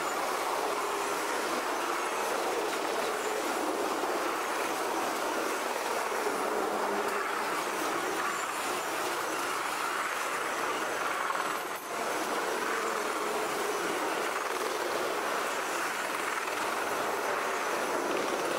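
CSX double-stack intermodal freight train's container well cars rolling past, a steady noise of steel wheels on rail that dips briefly about twelve seconds in.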